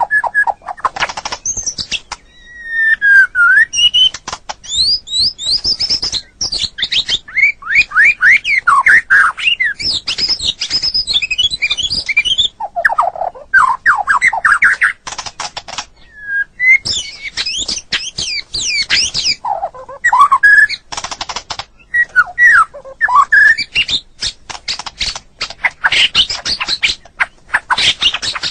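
White-rumped shama (murai batu) singing a loud, varied song: fast runs of rising and falling whistled notes, trills and harsh rasping phrases, broken by short pauses.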